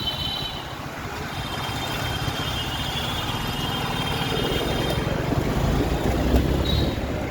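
City road traffic heard from a moving scooter, with wind rumbling on the microphone. A high steady tone sounds from about one to four seconds in, with shorter ones at the start and near the end.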